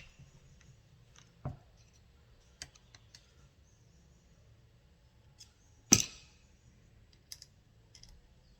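Scattered light metallic clicks and taps of small bolts and tools being handled while the starter motor's mounting bolts go in, with one sharp knock about six seconds in.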